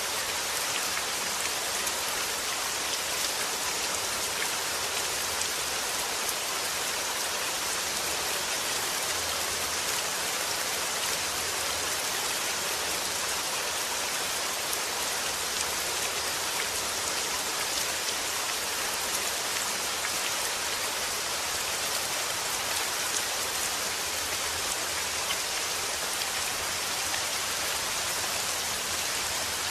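Steady rain falling, an even hiss of many drops striking a surface, with no change in intensity.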